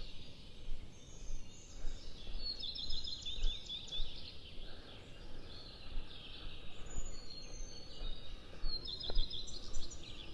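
A songbird singing a quick trilled phrase twice, about two and a half seconds in and again near nine seconds, with fainter chirps between, over low steady outdoor background noise.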